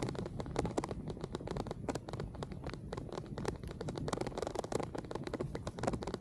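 Raindrops striking the camera microphone during a bicycle ride in the rain: dense, irregular clicks and crackles over a low rumble of wind and rolling tyres.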